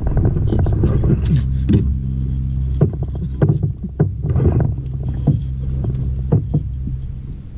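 Kayak being paddled: irregular knocks and splashes from the paddle against the water and hull, over a steady low hum.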